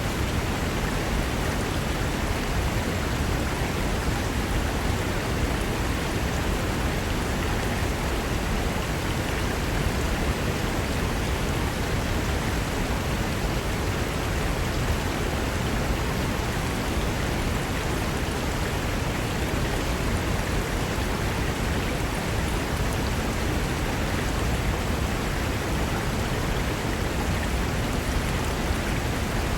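Fast mountain river rushing over rocks: a steady, even roar of white water with no change.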